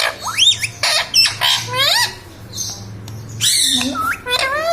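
Indian ring-necked parrot calling: a quick string of short squawks and whistled notes that swoop up and down in pitch, with one harsher screech about three and a half seconds in.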